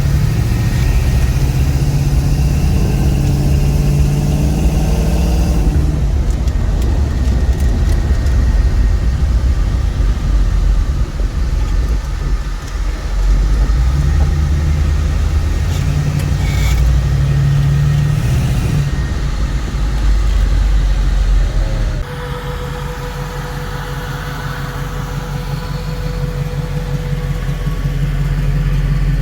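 1963 Chevrolet Nova driving, its engine note rising and falling as it accelerates and eases off. About 22 seconds in the sound drops suddenly to a quieter, steadier engine note that slowly builds again near the end.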